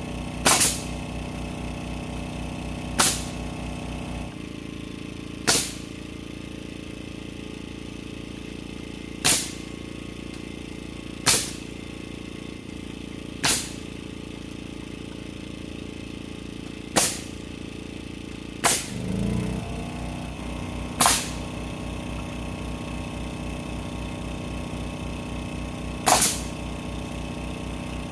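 Framing nailer driving single nails into lumber at irregular intervals a few seconds apart, each one a sharp crack. A steady machine hum runs underneath, with a low throb at the start and again from about two-thirds of the way through.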